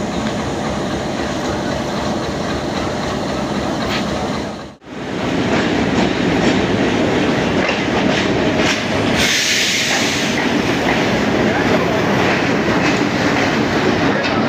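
Train running on the track, wheels clattering over the rails. The sound cuts out for a moment about five seconds in and comes back louder. A short burst of hiss comes about nine seconds in.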